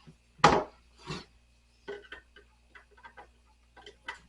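Furniture cam lock fasteners being twisted loose and pulled from nightstand panels: one sharp knock about half a second in, then a scatter of small clicks and ticks of the metal hardware.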